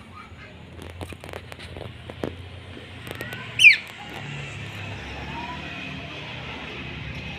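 A single sharp bird call sweeping quickly down in pitch, about three and a half seconds in, over a steady low rumble like distant traffic, with a few faint clicks before it.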